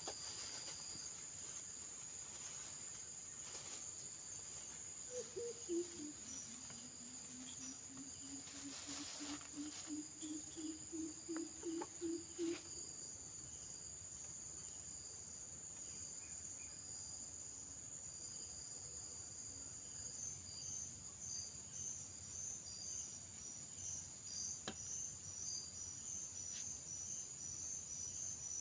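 A steady, high-pitched chorus of crickets and other insects; from about two-thirds of the way in, a second insect adds a rapid pulsed chirping just below it. Between about 5 and 12 seconds in, a lower pulsed animal call of about twenty notes dips and then slowly rises in pitch, with a few brief rustles.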